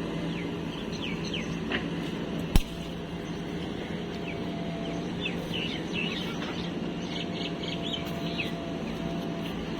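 Machine engine running at a steady idle hum, with birds chirping over it throughout. A single sharp knock about two and a half seconds in.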